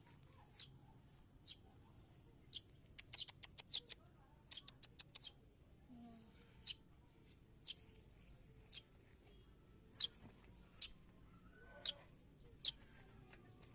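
Sparrow chirping: short, sharp, high chirps about once a second, with a quick run of several about three to five seconds in.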